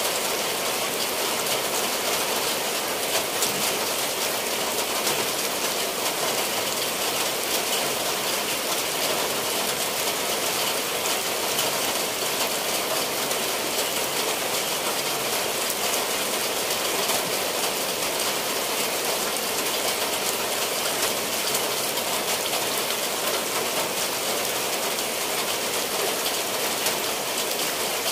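Steady rain falling on tiled roofs and the ground, with water dripping off the roof eaves in a dense, even patter.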